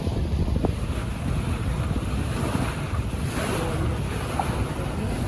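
Wind buffeting the microphone in an uneven low rumble, over a steady wash of water.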